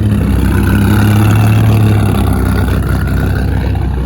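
A car engine running steadily at a low, even pitch, a little louder in the first two seconds and then easing slightly.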